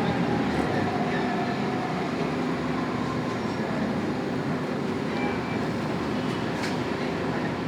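Scania K280UB city bus on the move, heard from inside: its rear-mounted 9-litre five-cylinder turbo diesel running with a steady low rumble and road noise.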